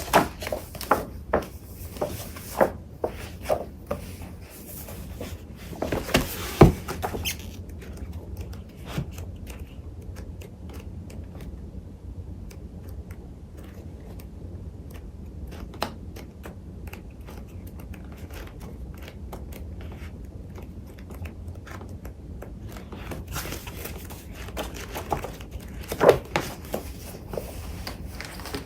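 Paper crafting supplies being handled and sorted by hand: paper shuffling and rustling with scattered sharp taps and knocks. The handling is busiest near the start, about six seconds in and again near the end, with quieter rustling in between.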